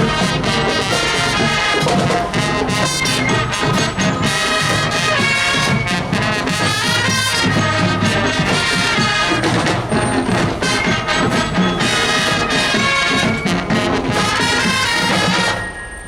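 Marching show band's brass section playing a tune at full volume, breaking off about a second before the end.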